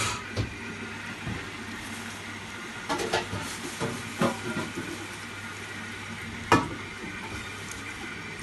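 Zanussi Lindo 100 washing machine taking in water at the start of a cottons wash: a steady hiss of water running in over a low hum, with a few sharp clicks and knocks, the loudest about six and a half seconds in.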